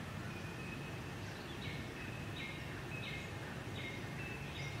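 Outdoor ambience with a steady low rumble, and a bird calling over and over from about a second and a half in: each call a quick falling note followed by a short steady whistle, repeated roughly every three quarters of a second.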